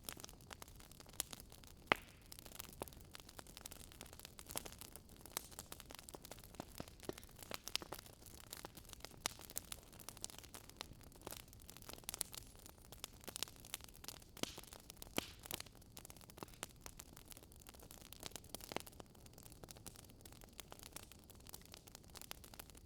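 Wood fire crackling: irregular small pops and snaps, several a second, over a faint steady hiss.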